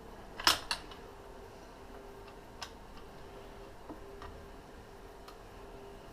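Metal tools and engine parts clinking as they are handled: a sharp double clink about half a second in, then a few faint ticks.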